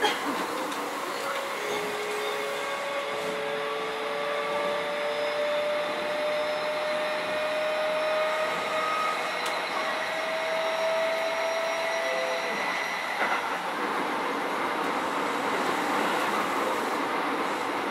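Running noise heard inside a Keio 7000-series electric train car between stations: a steady rumble with faint whining tones that rise slightly in pitch and die away about 13 seconds in.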